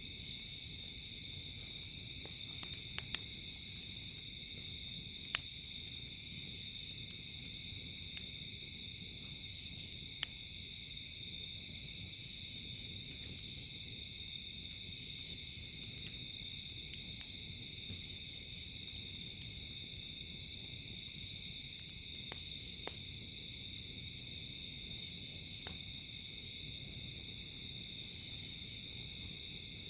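A steady, high-pitched chorus of night insects, joined every six seconds or so by a higher buzzing that swells and fades. A handful of sharp pops from a crackling campfire come through at irregular moments.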